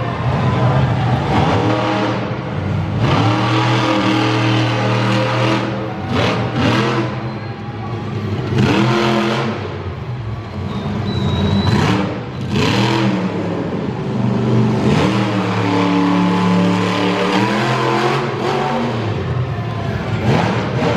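Monster truck engine revving hard again and again during a freestyle run, its pitch climbing and dropping with each throttle stab, with several short loud bursts mixed in.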